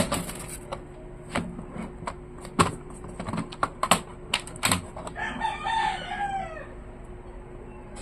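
Sharp plastic clicks and snaps as the laptop's case clips are pried apart along the seam with a fingernail. About five seconds in, a rooster crows once in the background.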